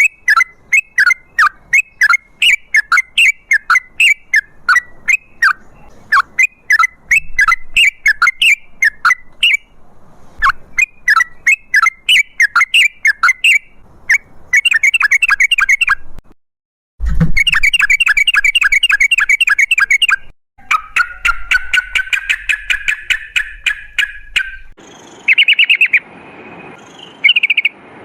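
Yellow-vented bulbul (trucukan) calling in long rapid runs: short, sharp downward chirps several times a second, in bursts with brief pauses between them, turning to a denser chatter near the end.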